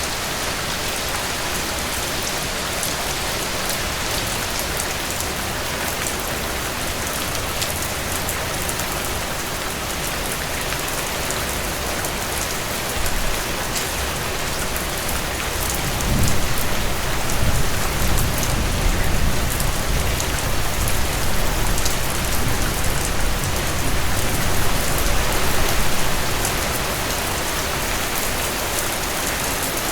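Heavy rain falling steadily on a surface. About halfway through, a low rumble of thunder rolls in and lasts about ten seconds before fading.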